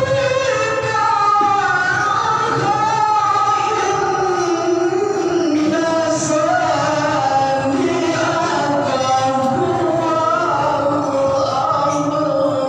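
A qari reciting the Quran in the melodic tilawah style, one voice holding long melismatic phrases that slide up and down in pitch with rapid ornaments, amplified through a Toa horn loudspeaker system.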